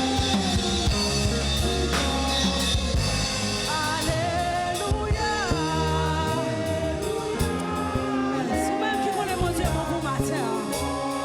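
Church worship band playing a gospel hymn, with sustained bass notes and drums under singing voices.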